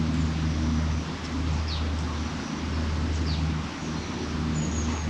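A steady low motor hum, with a few short, high bird chirps over it and a brief high whistle near the end.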